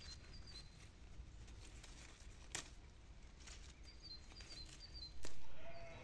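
Quiet outdoor ambience: a small bird chirps in two short runs of high notes, at the start and again about four seconds in, over a few soft crackles of dock leaves being handled. A short, louder bump comes near the end.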